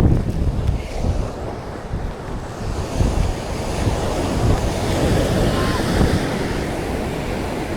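Ocean surf washing onto the beach, with gusty wind buffeting the microphone.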